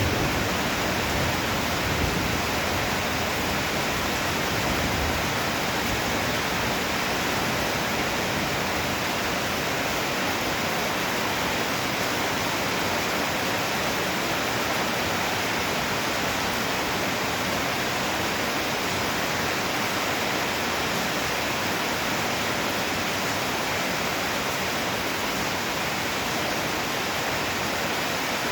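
Heavy downpour: a steady, even hiss of pouring rain with no break.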